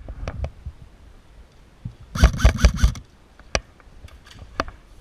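Airsoft gun shots: a few sharp cracks, then a quick string of about half a dozen about two seconds in, then a couple of single shots.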